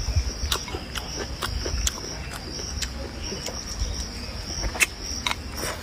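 Close-up eating sounds, chewing and sharp mouth and chopstick clicks, over a steady high-pitched drone of insects in the background.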